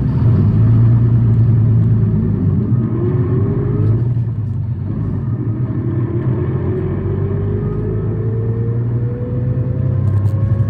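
Tokyu Bus H854, a city bus labelled as a noisy unit, driving under acceleration as heard from inside: a steady low engine drone with a whine that climbs in pitch, drops back once about four seconds in, and then climbs steadily again.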